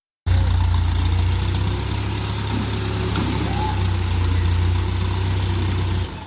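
Dump truck's diesel engine idling, a steady low rumble that drops away sharply near the end.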